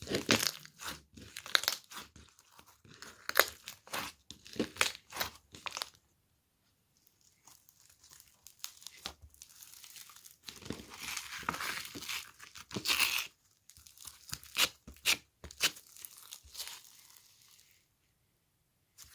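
Crinkling and crackling of some handled material, dense runs of small crackles broken by a full pause about six seconds in, then a softer rustling hiss with crackles until near the end.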